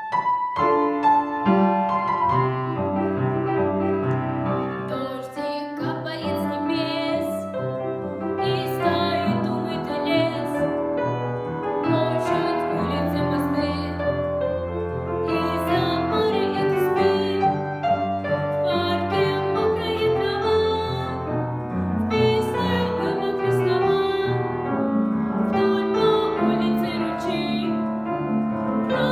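A piano plays a short introduction. From about five seconds in, a female voice sings a song in phrases with some vibrato, over the piano accompaniment.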